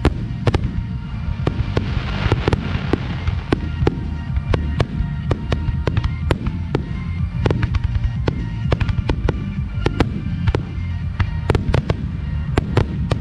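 Barrage of aerial firework shells bursting, many sharp bangs in quick succession over a continuous low rumble.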